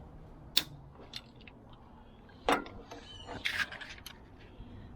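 A few sharp metallic clicks and knocks from hand tools, such as a ratchet and wrenches, being handled on the engine. The loudest knock comes about two and a half seconds in, followed by a short clatter about a second later.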